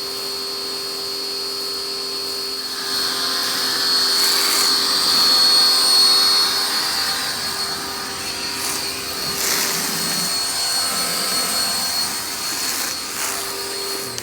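Electric pressure washer running with a steady motor whine, joined about three seconds in by the hiss of its spray, while the car is being washed.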